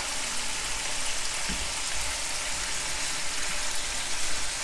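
Lamb strips in a thick cornflour marinade frying in a pan over medium-low heat, with a steady, even sizzle.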